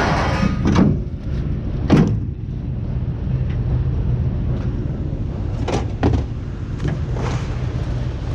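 Scrap metal being handled and dropped at a scrapyard weigh station: a few separate clanks and knocks, the sharpest in the first two seconds and a pair about six seconds in, over a steady low hum.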